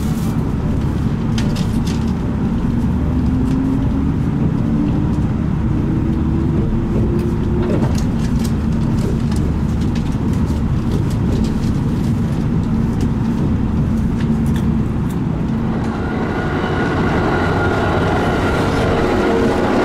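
Kintetsu train heard from inside the car: a steady low rumble while it stands at the platform, with a whine that rises over a few seconds. From about sixteen seconds in, the running noise of a moving train with higher steady whining tones.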